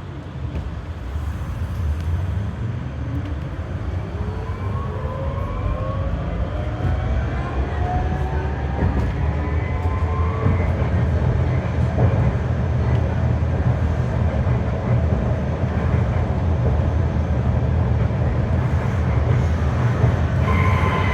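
Berlin GTZO tram under way, heard from inside the car: a steady rumble of wheels on rails, with the drive's whine rising in pitch over several seconds as the tram picks up speed. Near the end a new whine sets in and falls slightly in pitch.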